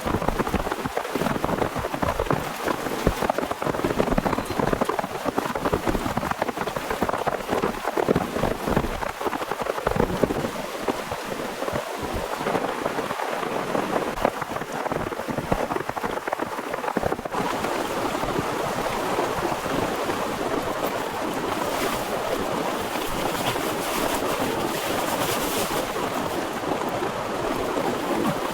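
Heavy torrential rain. For roughly the first half it comes unevenly, with many irregular patters and knocks of drops striking a surface; about seventeen seconds in it settles into a steady, brighter hiss.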